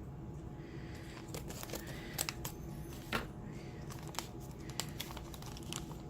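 Scissors cutting open a small sealed packet of powder, with a handful of sharp snips and the crinkle of the packet; the loudest clicks come about two and three seconds in.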